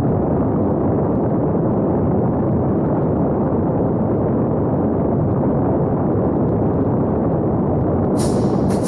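Wind buffeting the microphone: a steady, loud, low roar with no engine or motor tone in it. Near the end a sharper hiss suddenly cuts in.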